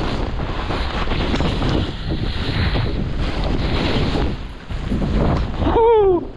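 Wind buffeting the microphone during a fast ski run in a blizzard, with the hiss of skis through snow. Near the end there is a short cry from a voice whose pitch rises and then falls.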